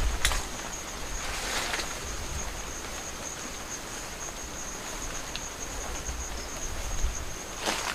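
Insects trilling steadily on one high, slightly pulsing note, with a few brief rustles of movement: one near the start, one about a second and a half in, and one near the end.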